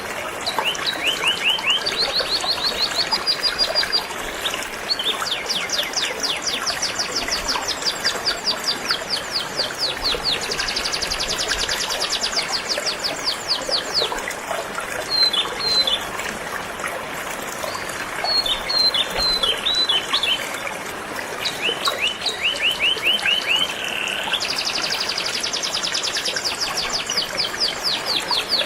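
Canary singing, a string of fast trilled phrases of rapidly repeated high notes, each phrase lasting a few seconds before switching to a new one. Steady rushing of a flowing river underneath.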